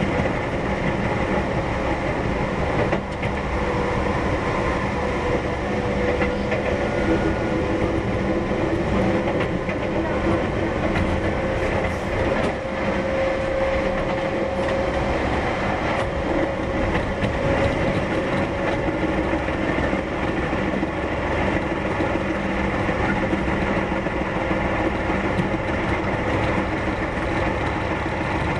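Keihan 1000 series electric train running, heard from inside the passenger car: a steady rumble of wheels on rail with occasional faint clicks, and a faint whine that rises slightly in pitch partway through.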